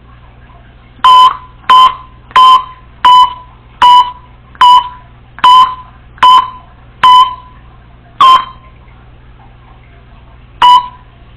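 Congo African grey parrot imitating electronic beeping: eleven loud, short, single-pitched beeps. Ten come at a steady pace of about one every three-quarters of a second, and one more follows after a pause near the end.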